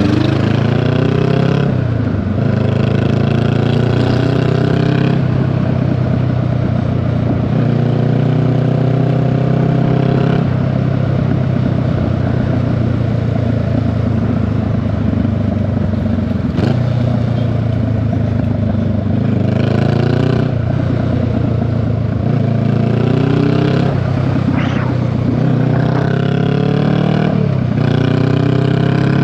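Honda Rebel 500 parallel-twin motorcycle engine and exhaust under way, accelerating again and again. The pitch climbs, drops off at each gear change, and climbs again, holding steady for a few seconds in the middle.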